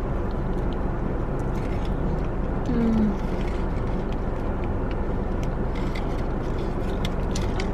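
Steady low hum of an idling car engine heard from inside the cabin, with faint small clicks and one short pitched sound about three seconds in.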